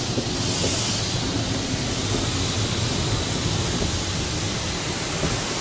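Automatic car wash spraying water over the car, heard from inside the cabin as a steady hiss over a low rumble.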